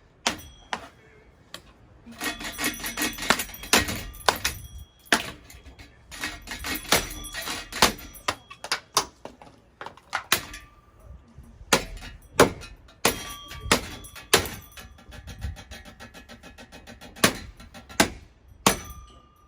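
Hampton Bay Chatham hugger ceiling fan being smashed: a long series of hard blows on its metal housing and parts, many of them clanking and ringing, with a spell of rattling partway through.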